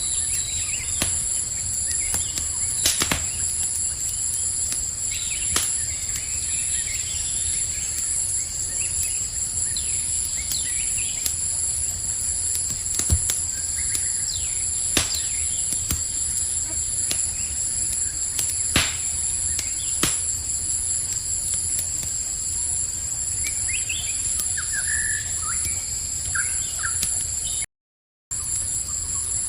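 Campfire crackling, with sharp pops every few seconds, over a steady high cricket trill. A few short bird chirps come near the end, and the sound cuts out completely for about half a second just before the end.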